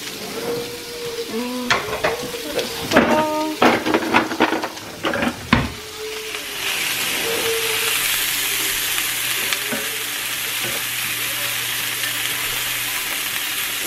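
Diced onions frying and sizzling in a skillet as they are stirred. A few sharp clacks of the utensil against the pan come in the first half, then the sizzle turns louder and steady about six and a half seconds in.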